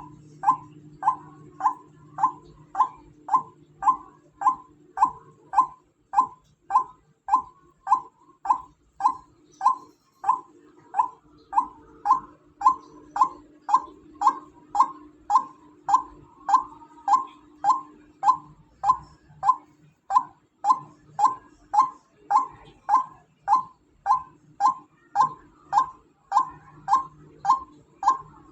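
Female white-breasted waterhen calling: one short, falling note repeated very evenly about twice a second, over a faint steady low hum.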